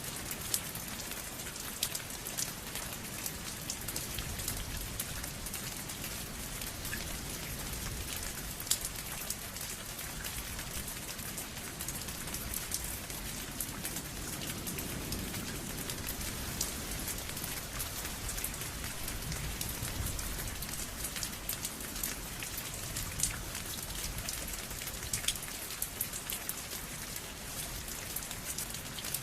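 Steady rain falling on a surface, with a constant hiss and frequent sharp individual drop ticks scattered through it.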